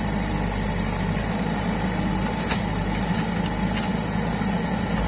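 Diesel engine of heavy machinery running steadily at an even, low speed.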